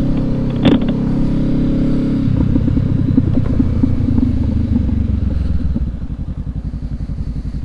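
Motorcycle engine idling, which changes about two seconds in to a low, fast, even pulsing idle.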